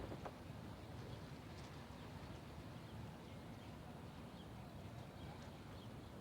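Faint outdoor ambience: a steady low rumble with scattered faint, short high chirps and a couple of soft clicks at the very start.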